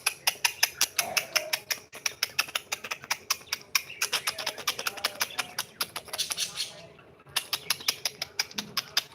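Pet cockatiel making a fast run of sharp clicks, about eight a second. The clicks break off briefly near the end and then start again.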